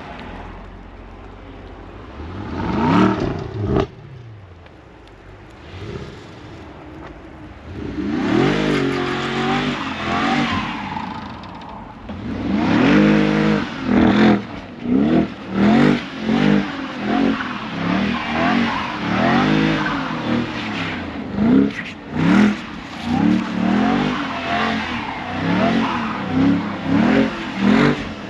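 Car engine revving hard and repeatedly, its pitch rising and falling in quick blips over and over through the second half, after a few slower single revs.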